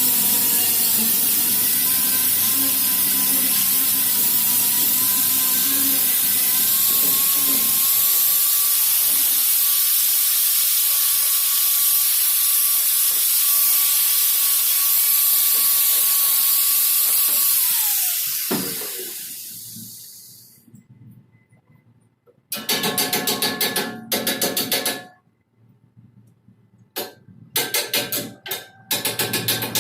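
Angle grinder running steadily, then switched off about eighteen seconds in, its whine falling as the disc spins down. After a short pause it is run again in several short bursts.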